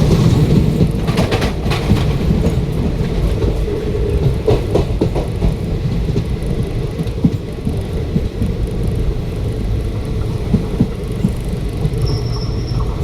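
Express train running on the rails: a steady heavy rumble with clusters of wheel clicks over rail joints. A thin high squeal starts near the end.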